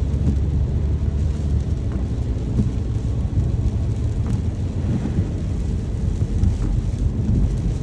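Rain with a low rumble of thunder underneath.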